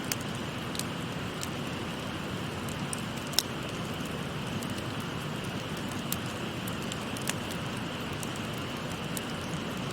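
Wood fire crackling with scattered sharp pops over the steady rush of a babbling stream; the loudest pop comes about three and a half seconds in.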